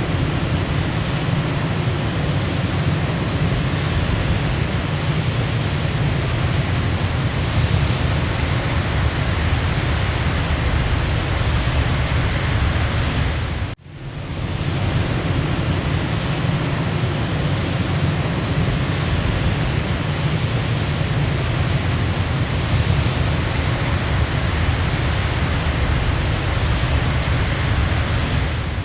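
Waterfall rushing steadily, a dense even roar heaviest in the low end. About halfway through it cuts out for an instant and fades back in.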